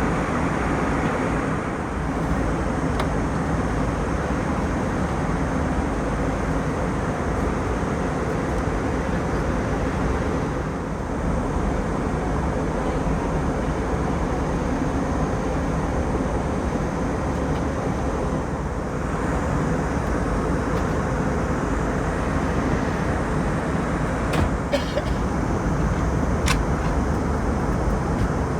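Steady cabin noise of an Airbus A320 airliner in flight, engine and airflow noise blended into an even low rush, with a few small clicks near the end.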